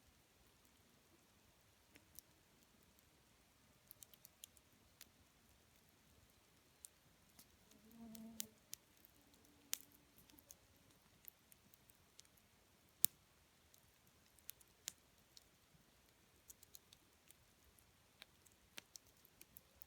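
Wood campfire crackling faintly, with sparse, irregular sharp pops and snaps; the loudest snap is about two-thirds of the way through. A brief low tone sounds about 8 seconds in.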